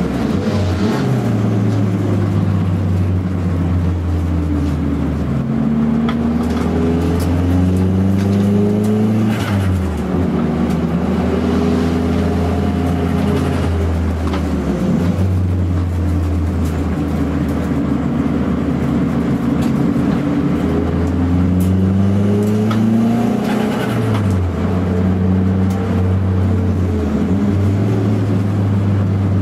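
Toyota Starlet EP82 GT Turbo's turbocharged four-cylinder engine heard from inside the cabin, driven hard on track: its pitch climbs under full throttle and falls away several times, with sudden drops at the gear changes.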